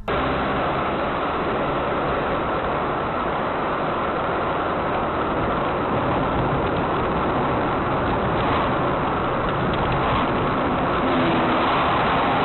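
Steady vehicle driving noise, an even rush of engine and road sound, with no distinct impacts.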